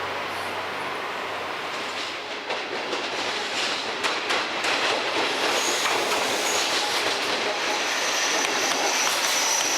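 Train running on the rails, with a steady rush of noise that grows louder a few seconds in. A quick run of wheel clicks over rail joints follows, then a thin, high, steady wheel squeal.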